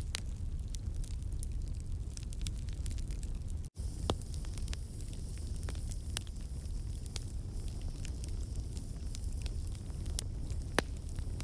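Wood campfire burning, with frequent sharp crackles and pops from the burning logs over a steady low rumble. The sound drops out for an instant a little under four seconds in, and one louder pop comes near the end.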